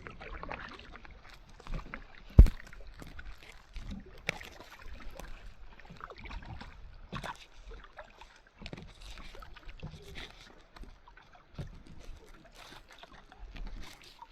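Kayak paddles splashing and dripping in lake water in irregular strokes, with a faint low rumble underneath. One sharp, loud thump comes about two seconds in.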